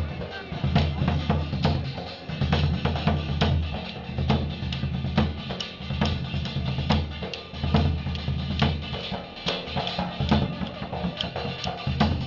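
Folk music led by drums playing a steady, quick rhythm of sharp strikes, over a low steady hum.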